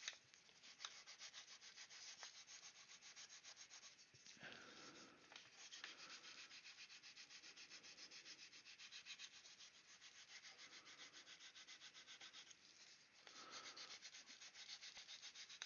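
Faint light sanding of a painted plastic model kit's surface, in quick, even back-and-forth strokes, flattening old paint and weathering ready for respraying.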